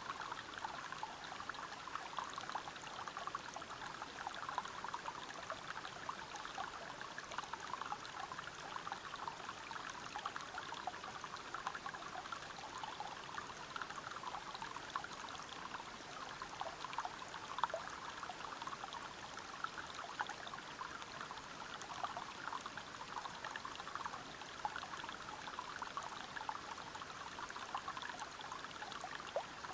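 Water from a forest stream and waterfall flowing and splashing over rocks: a steady, even rush thick with small splashes, with no pauses or changes.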